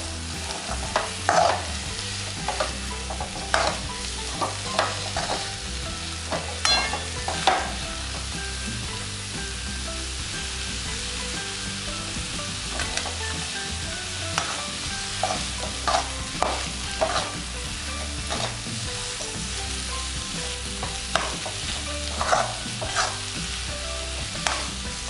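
Sprouted moth beans (matki) frying in spiced oil in a metal kadhai: a steady sizzle, with a metal spatula stirring and scraping them against the pan in irregular strokes, fewer in the middle stretch.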